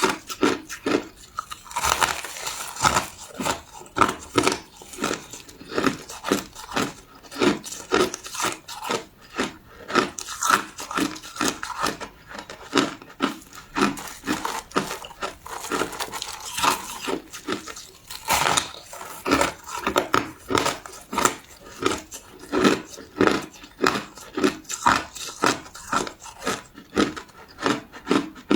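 Crushed ice being chewed close to the microphone: a continuous run of sharp, crisp crunches, several a second.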